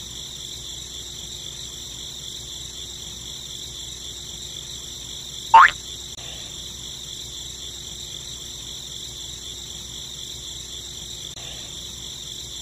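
A steady, high-pitched chirring chorus of calling animals, a nature-sounds backdrop. About five and a half seconds in, one short, loud rising chirp stands out above it.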